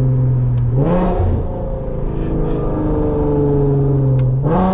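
Infiniti Q50's V6 with an aftermarket ARC exhaust droning loudly at a gentle cruise. The pitch rises briefly twice, about a second in and again near the end.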